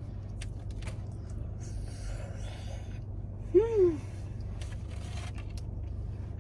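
A person eating inside a parked car over a low steady hum, with some rustling and small clicks; about three and a half seconds in comes a short 'mmm' of enjoyment that rises and falls in pitch.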